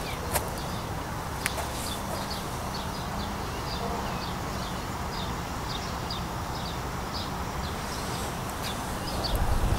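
Small birds chirping, short high chirps scattered throughout, over a steady low rumble. Two sharp clicks come early on, and the low rumble grows louder near the end.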